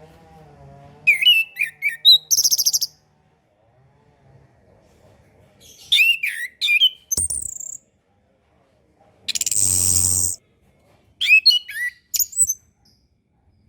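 Chestnut-capped thrush (anis kembang) song: four short phrases of rapid, sharply bending whistled notes run into high trills, with a harsh buzzy burst about nine to ten seconds in.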